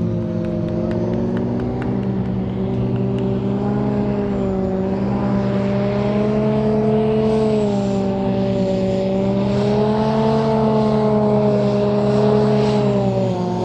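Amphibious vehicle's engine running steadily on the water, its pitch drifting slightly up and down.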